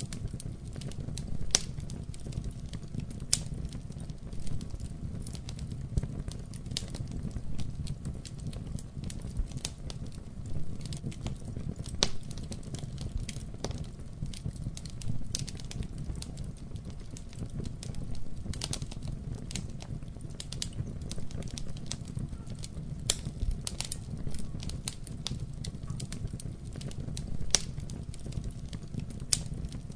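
Wood fire burning in a fireplace, a steady low rumble of flames with frequent irregular crackles and sharp pops.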